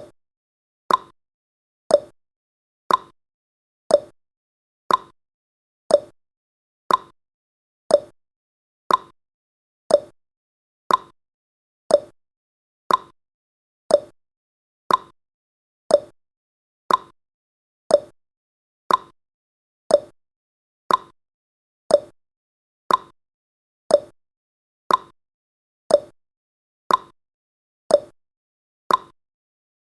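Countdown timer's tick sound effect: a short, sharp tick exactly once a second, steady and even.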